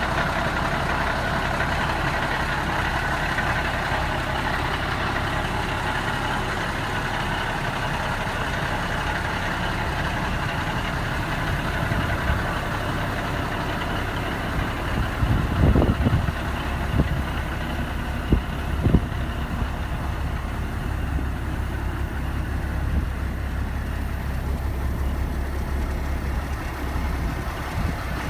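A heavy diesel truck engine idling steadily, with a few low thumps about halfway through.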